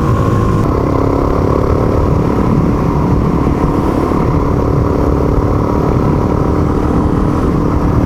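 Suzuki DR single-cylinder motorcycle engine running under way in top (fifth) gear, with road and wind noise. The engine note dips about a second in, then holds steady.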